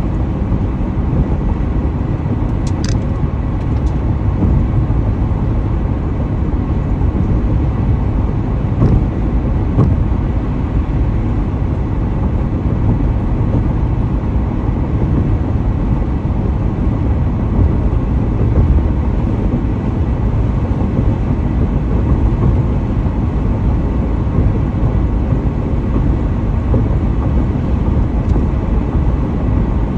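Car driving at highway speed: steady low rumble of road, tyre and engine noise, with a few brief light ticks near the start and about ten seconds in.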